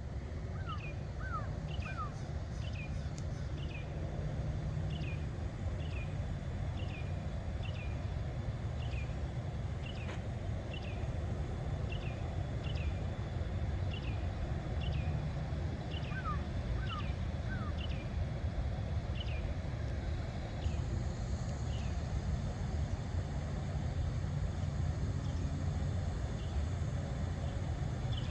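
A bird repeating a short, high, falling chirp about once a second, twice joined by a quick run of three lower rising chirps, over a steady low rumble.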